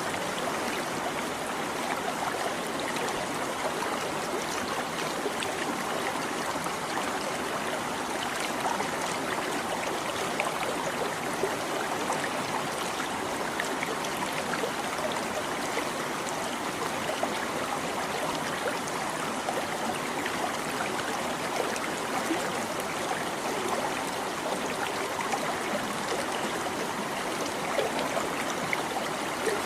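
Shallow stream babbling steadily over stones, with small trickles and splashes in an even rushing wash.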